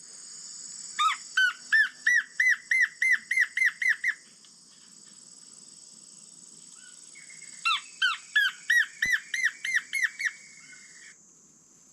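Recorded blackish antbird song, starting from the female song, played back through a phone speaker: two series of about a dozen quick whistled notes, about four a second, each note rising then falling. A steady high tone runs underneath and cuts off suddenly near the end as the playback is paused.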